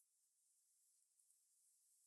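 Near silence, with only a faint steady high-pitched hiss.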